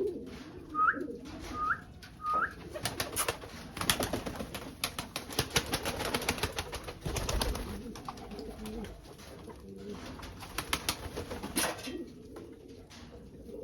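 Pigeons cooing at the start and again near the end, with three short rising chirps in the first few seconds. Through the middle, a run of sharp clicks and rustling.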